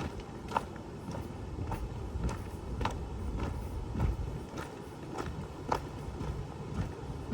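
Footsteps of a person walking at a steady pace, about two steps a second, over a low rumble.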